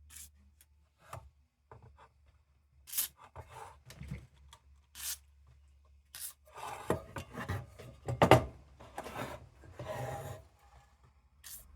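Short hissing squirts of WD-40 spray, then scraping and rubbing at the acid-encrusted housing of an old battery lantern, with a few sharp knocks.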